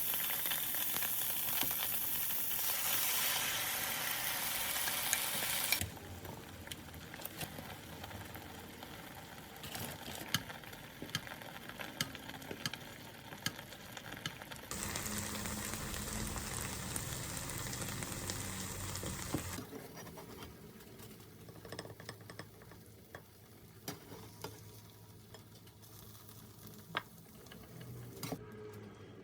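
Food sizzling as it fries in a pan, loud for the first six seconds, then quieter sizzling with scattered sharp clicks of a utensil stirring against the pan. A steadier rushing sound with a low hum comes in from about fifteen to twenty seconds in.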